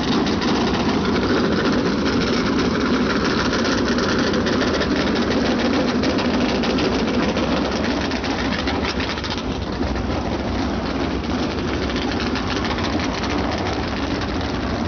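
Several USAC Silver Crown race cars' 360-cubic-inch alcohol-burning V8 racing engines running together at idle, a dense, steady, loud engine noise that eases slightly about eight seconds in.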